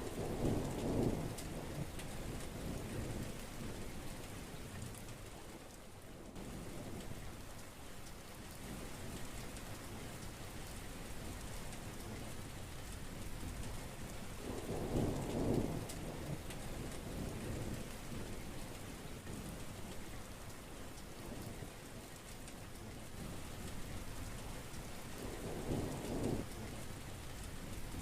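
Heavy rain falling steadily, with three rumbles of thunder, about a second in, midway and near the end.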